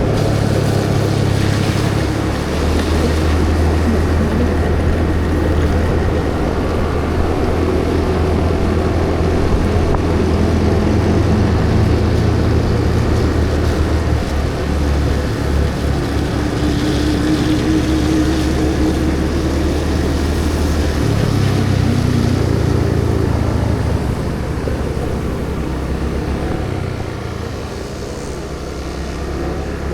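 Motorcycle engine running on the move, its hum rising and falling in pitch several times as the speed changes, with rushing road and wind noise.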